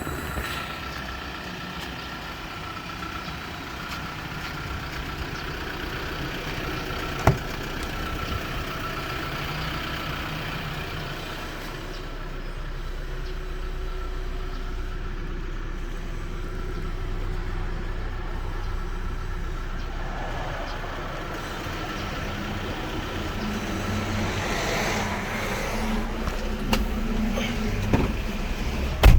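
Kia Bongo 3 1.2-ton cargo truck's engine running steadily at idle, with a single click about seven seconds in and a sharp knock near the end.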